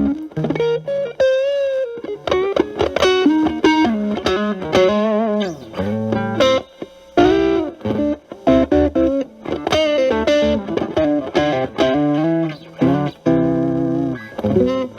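Fender Stratocaster with single-coil pickups played through a Boss DS-1 distortion pedal at 12 o'clock, boosted by an Ibanez TS9 Tube Screamer, into a Marshall Valvestate amp: an overdriven single-note lead line with string bends and vibrato.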